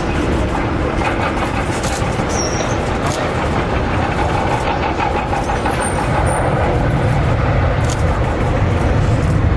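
Jet airliner engine noise: a loud, steady rush and rumble with faint high whistling, the low rumble growing stronger over the last few seconds.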